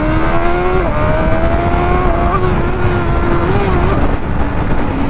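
Sport motorcycle engine accelerating hard, its pitch climbing and then dropping sharply about a second in and again about two seconds in, then wavering and dipping once more near the end. The drops fit a botched upshift, the gearbox slipping from third back into second and neutral, as a rider describes it. Steady wind and road rumble on the helmet microphone.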